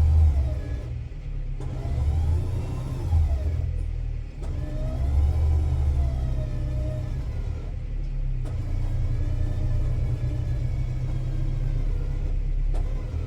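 Old Ford tractor engine running under load and revving up and down several times in slow swells, as it works against a stuck drag scraper.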